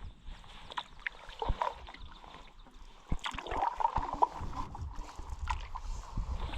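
Canoe paddling: paddle strokes in the water with gurgling and sloshing water and a few light knocks.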